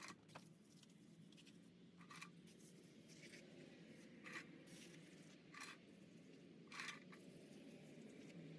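Six faint, short scraping strokes, each about a quarter second long, spaced roughly a second apart over a low steady background.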